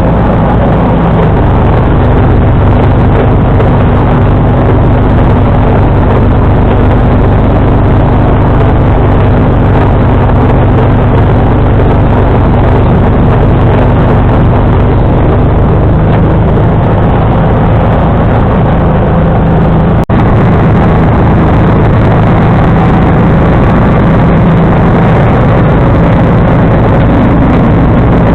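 John Deere 445 garden tractor's liquid-cooled V-twin engine running steadily while driving a 47-inch front snowblower, heard close up. A split-second break in the sound about two-thirds through.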